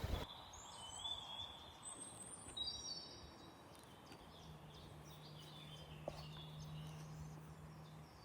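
Small birds chirping and calling in a forest, with many short high whistled notes, some gliding up or down. A low steady hum joins about halfway through.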